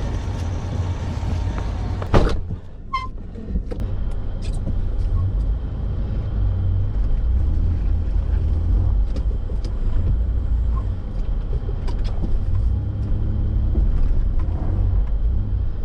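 Toyota 4x4's engine running steadily as it pulls a heavy van stuck in deep snow free on a recovery strap. There is one sharp thump about two seconds in, and the engine gets a little louder through the second half of the pull.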